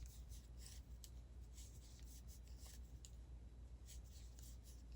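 Faint soft scraping and light clicks of knitting needles and doubled yarn as stitches are worked, over a low steady hum.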